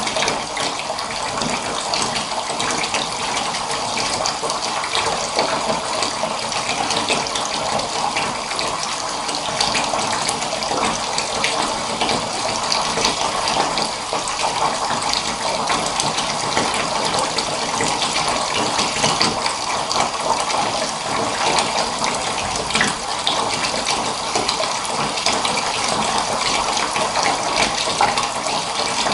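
Water pouring steadily into a bath, an even splashing flow that keeps up without change.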